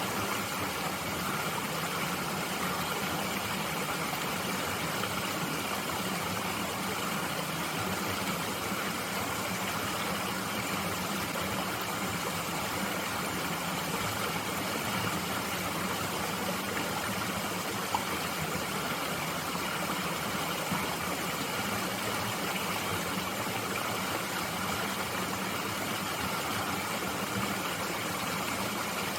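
Mountain stream flowing, a steady rushing of water with no change, and a single faint click about 18 seconds in.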